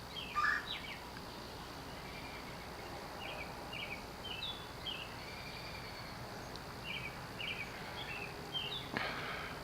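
Birds chirping faintly in short, quick notes that come in small clusters, over a faint steady high whine and background hiss. There is a brief knock near the end.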